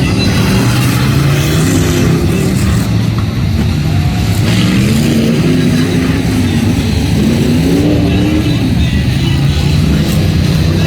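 Off-road competition vehicle engines revving, the pitch rising and falling several times as the throttle is worked.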